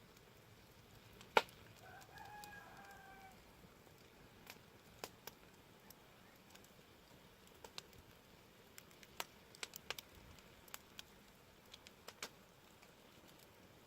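Wood fire crackling, with scattered sharp pops, the loudest about a second in. About two seconds in, a rooster crows faintly in the distance.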